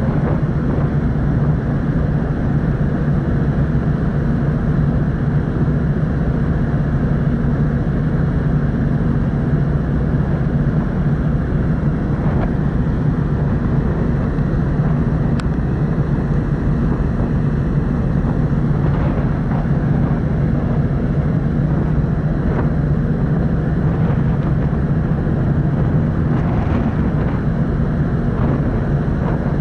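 Steady low drone of the car ferry Kuniga's engines and machinery running under way, even and unbroken.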